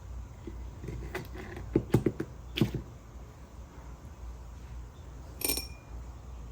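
Objects being handled on a work surface: a cluster of light knocks and clicks, then a single short clink that rings briefly near the end, over a steady low hum.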